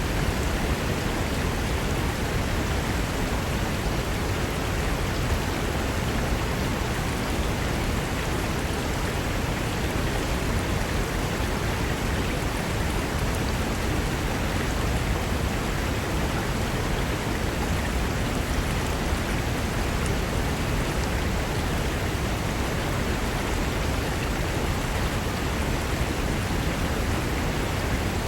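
Mountain river rushing over rocks, a steady, unbroken wash of white-water noise.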